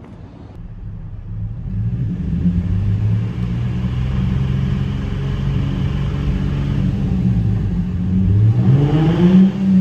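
2004 Infiniti G35's V6 engine running on the road, its pitch climbing as the car accelerates about two seconds in and again, more strongly, near the end. The engine has a rod knock.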